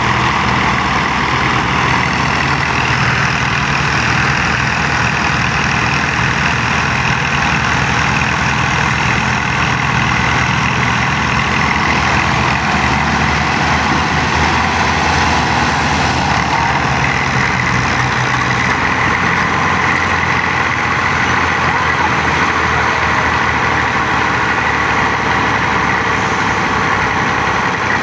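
Tractor diesel engine running steadily, its level and pitch holding even throughout.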